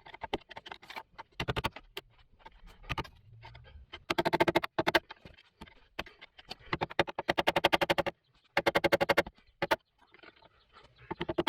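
A power tool cutting sheet metal in short bursts of about a second, each a fast, even chatter with a steady buzz, with short pauses between.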